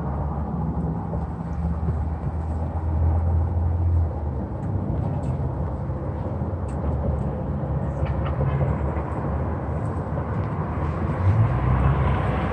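Steady low rumble of a vehicle, with a few faint ticks over it.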